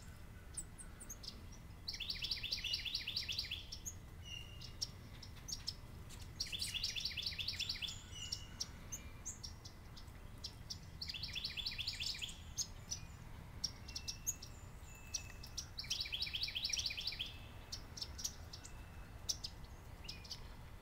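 A songbird singing a rapid, even trill of about 1.5 s, four times at intervals of about 4.5 s, with short chip notes between the songs.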